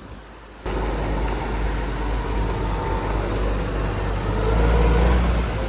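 Tractor engine running with a steady low rumble as it reverses a loaded grain trailer; it cuts in abruptly just under a second in and gets a little louder near the end.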